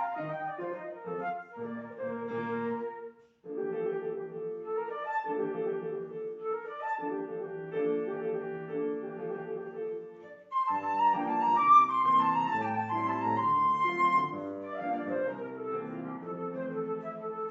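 Instrumental music with piano: a classical-style piece played live, breaking off briefly about three seconds in, then getting louder and higher from about eleven seconds.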